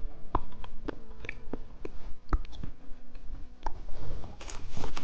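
Irregular sharp clicks and taps from candy being handled, with a plastic candy wrapper starting to crinkle near the end.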